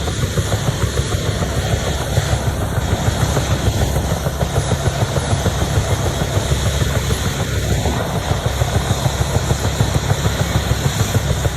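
UH-1 Huey helicopter running close by, its turbine and two-bladed main rotor making a heavy low, rapidly pulsing thump.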